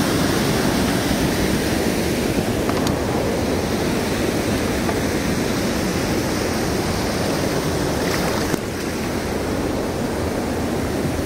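Steady rushing of fast river water around the raft, a continuous loud noise that drops a little about eight and a half seconds in.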